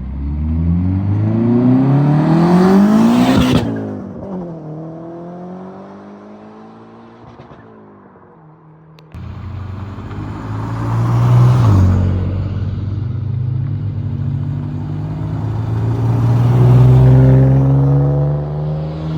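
Car engines revving as cars pull away. One engine's pitch climbs steadily to a loud peak about three and a half seconds in, then drops and fades. A sudden change about nine seconds in brings another engine that runs steadily, with revs a couple of seconds later and again near the end.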